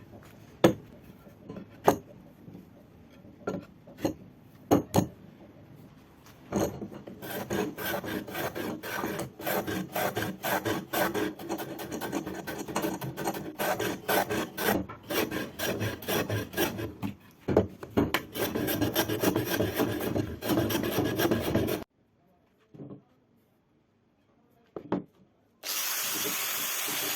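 A hand rasp scraping wood in quick back-and-forth strokes, after a few scattered taps. The strokes stop suddenly, and near the end a steady hiss begins.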